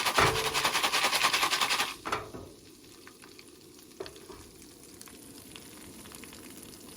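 Jiffy Pop foil pan being shaken vigorously, a fast, loud rattle of unpopped kernels in the aluminium pan that stops about two seconds in. After that there is a faint steady hiss with a couple of light clicks.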